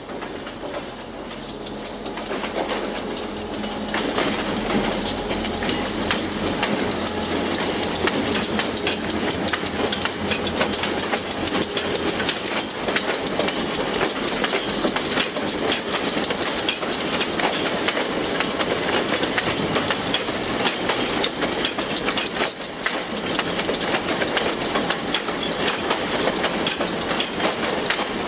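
A Providence & Worcester diesel locomotive and its passenger cars passing close by, the wheels clicking steadily over the rail joints. The sound builds over the first few seconds as the train arrives, then holds steady as the cars roll past.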